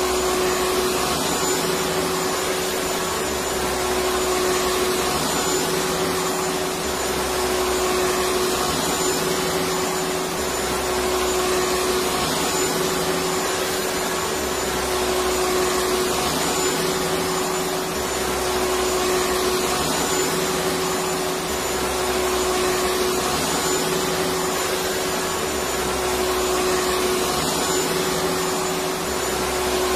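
Electric vacuum cleaner running steadily: a continuous whooshing motor noise with a steady hum, swelling slightly every few seconds.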